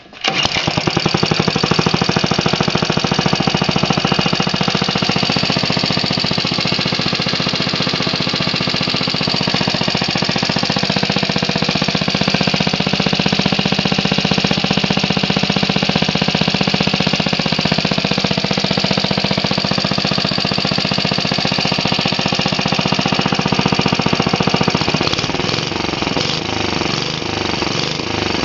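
Vintage Clinton B1290 small engine starting and catching at once, then running steadily at speed through its original muffler. Near the end the note turns uneven and a little quieter, fitting a carburetor that could probably use some fine tuning.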